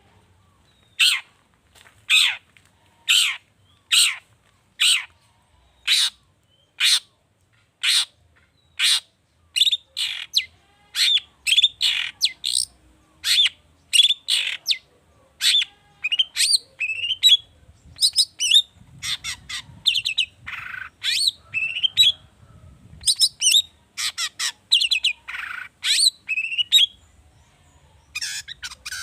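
Long-tailed shrike (cendet) calling: sharp, harsh calls about once a second for the first nine seconds or so, then faster, more varied song phrases with gliding notes.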